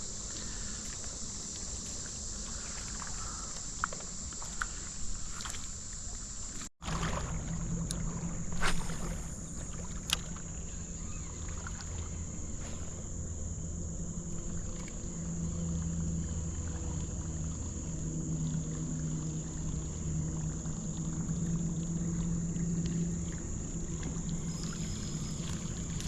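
Creekside ambience: a steady high-pitched insect drone over a low rumble of moving water, with a few sharp clicks scattered through it. The sound cuts out abruptly for an instant about seven seconds in, and the low rumble is stronger after that.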